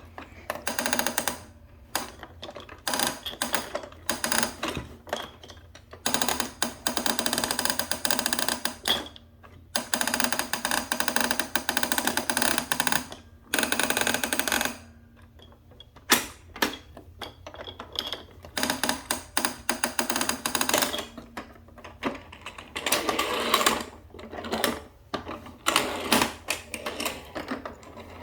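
Battery-powered Thomas & Friends toy train set running, its small motor and plastic gears clattering, starting and stopping many times as buttons are pressed and the train moves along the track.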